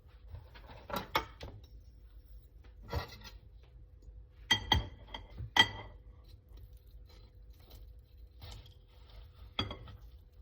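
Cutlery clinking against a dish as a baked apple is cut in half. The taps are scattered and ring briefly, and the loudest few come a little past the middle.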